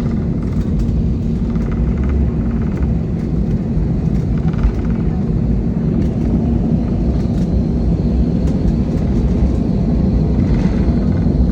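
Airliner engines running steadily during takeoff, with a constant heavy rumble.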